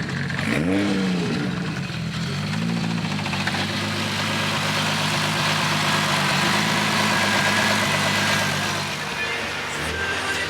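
Car engine: a quick rev that rises and falls in pitch about a second in, then running steadily and growing louder for several seconds before easing off near the end.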